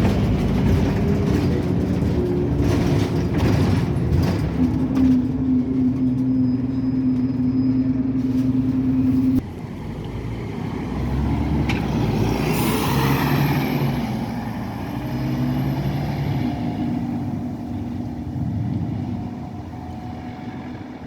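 Scania N270UD OmniCity double-decker bus heard from on board: the diesel engine and driveline running under way, their tones shifting in pitch as the bus changes speed. The sound drops abruptly about nine seconds in, and a short rush of air hiss comes a few seconds later.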